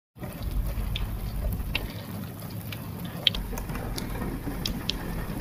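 Heavy rain falling steadily, with wind rumbling on the microphone and a few scattered sharp ticks.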